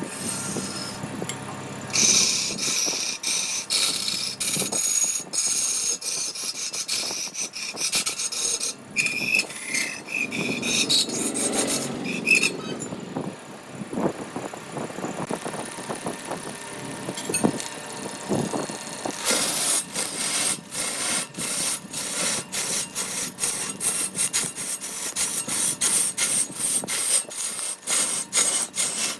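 A hand tool worked back and forth against wood, rasping and scraping. In the last third it settles into a steady rhythm of about two to three strokes a second.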